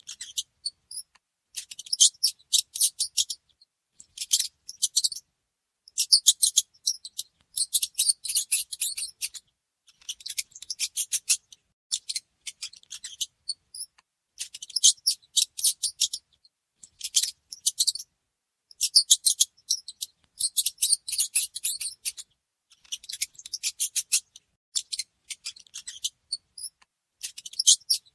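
Mouse scratching at wood: fast, dry, high-pitched clicking in short bursts of a second or so, broken by brief pauses.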